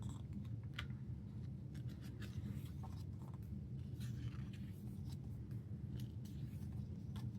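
Pages of an album photobook being turned and handled: irregular soft paper rustles and short light clicks over a steady low hum.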